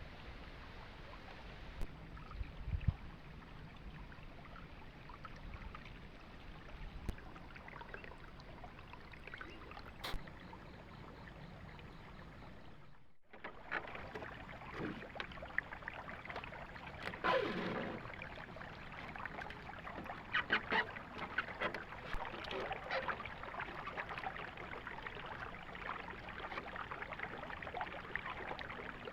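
River water running, with occasional knocks and splashes. It drops out for a moment about thirteen seconds in and comes back busier, with more splashing and clatter.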